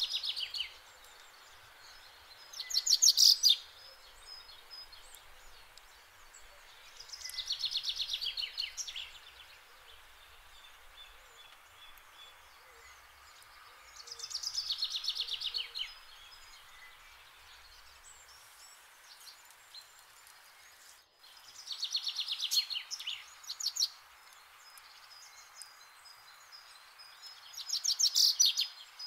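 A songbird singing the same phrase of rapid, high notes five times, each phrase about one to two seconds long with pauses of several seconds between, over a faint steady background hiss. No cow mooing is heard.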